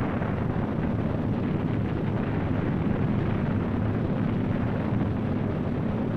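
Steady low rumbling drone of aircraft engines, even in level throughout, with no separate bangs or shots.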